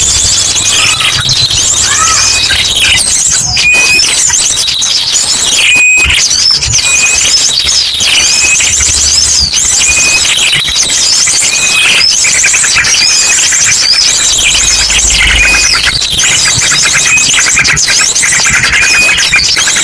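Bird-lure track: a loud, dense chorus of many small birds chirping and trilling at once, layered with the repeated whistled call phrases of an ashy drongo, short whistles recurring every couple of seconds.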